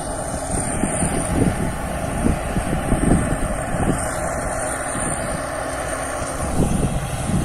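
Thai Seng rice combine harvester running steadily, a continuous engine and machinery drone.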